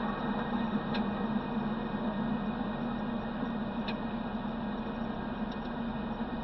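Mazda Miata's four-cylinder engine running steadily at low revs, with wind and road noise in the open cockpit and a couple of faint ticks.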